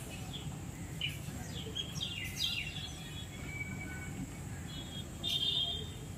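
Birds chirping in short, downward-sliding calls, with a louder cluster of calls about five seconds in, over a steady low background rumble.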